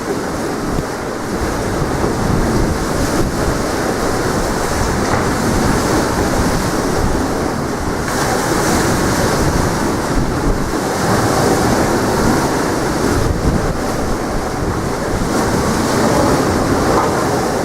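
Strong wind blowing on the microphone together with sea waves washing ashore: a loud, steady rush of noise.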